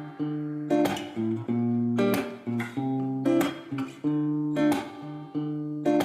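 Background music: a strummed guitar playing chords, with a strum about every second and a bit.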